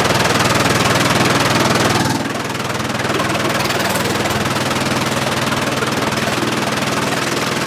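An engine running steadily with an even, low pulsing beat. A louder rushing noise over it cuts off about two seconds in, and the engine runs on alone.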